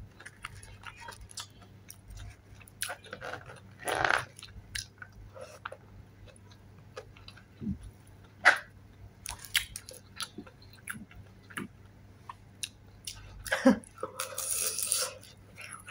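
Close-miked chewing and biting of fried chili dynamite rolls (chili peppers with ground beef in lumpia wrappers), with wet mouth clicks and light crunches. There are a few louder bites or mouth sounds about four, eight and a half and fourteen seconds in.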